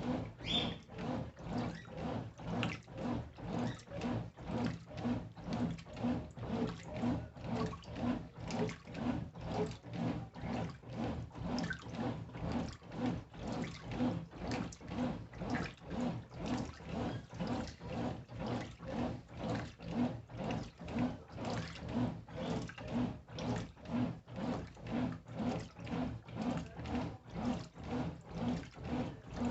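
Brastemp Intelligent 7 kg washing machine agitating a load in water: rhythmic swishing and sloshing at about two strokes a second over a steady low motor hum.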